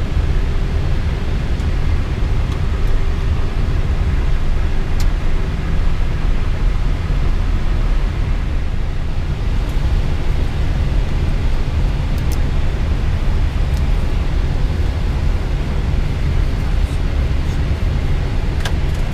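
Steady low rumble of Airbus A320 cockpit noise while taxiing, the engines at idle and the air conditioning running, with a few faint clicks.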